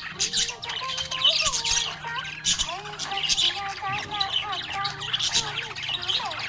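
Budgerigar chattering and chirping without pause, in quick squawky warbles, over a steady low hum.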